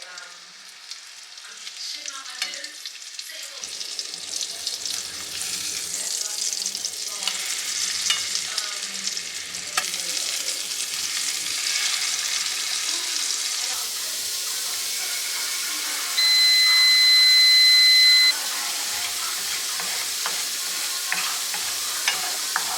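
Food sizzling and frying in a hot pan, with scattered clicks of utensils; the sizzle builds over the first few seconds. Past the middle, a loud, steady electronic beep sounds for about two seconds.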